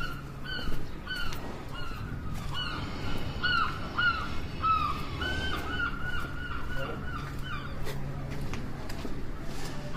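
Birds calling over and over in a long run of short rising-and-falling cries, coming fastest and loudest around the middle. A steady low hum runs underneath.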